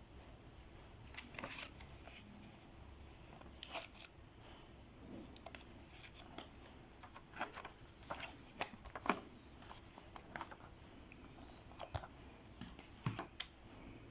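Soft handling noises: irregular small clicks and crinkles, a few at a time with quiet between, a little louder about two thirds of the way through.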